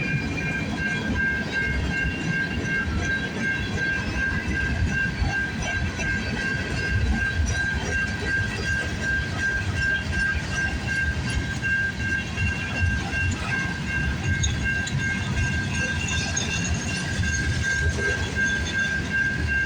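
Freight cars of a CN manifest train rolling past: a steady rumble of steel wheels on rail with some clickety-clack. A steady high-pitched tone runs over it throughout.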